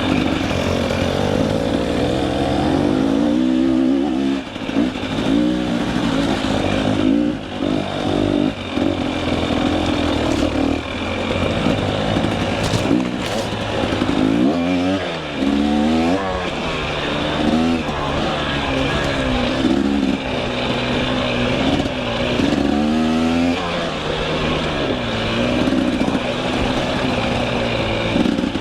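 KTM 300 EXC two-stroke enduro dirt bike engine being worked over rough technical trail. The throttle is blipped and revved up and down again and again, with no steady cruising speed.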